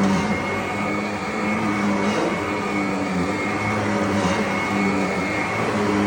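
Vacuum cleaner running steadily: a motor hum with a thin, steady high whine over the rush of air.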